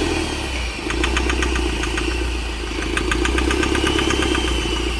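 Mahindra Scorpio mHawk four-cylinder common-rail diesel engine idling, with groups of rapid sharp metallic ticks over its steady hum. The knock is being traced to cylinder 2: the mechanic suspects an injector with too much flow from a dropped nozzle pin, or else a fault in the cylinder.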